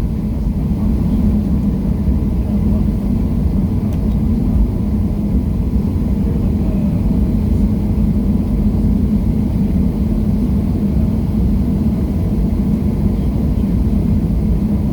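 Boeing 737-700 cabin noise under takeoff power: the steady low rumble of its CFM56 jet engines and the rushing air, with a constant hum and no change in pitch.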